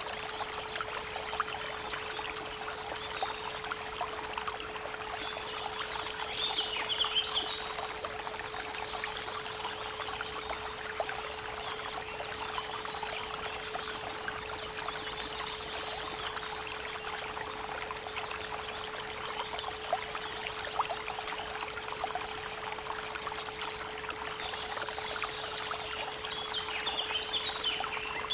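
Steady 432 Hz pure tone held under the constant rushing babble of a creek. Small songbirds chirp over it in short bursts, about five seconds in, around twenty seconds in, and again near the end.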